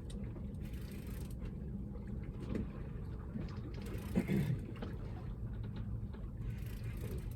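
Steady low rumble of a small boat on the water while a hooked fish is played, with a few faint clicks and a short low grunt about four seconds in.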